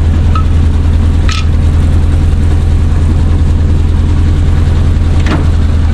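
Chevrolet C60 wrecker's engine idling steadily, with a couple of brief high squeaks over it.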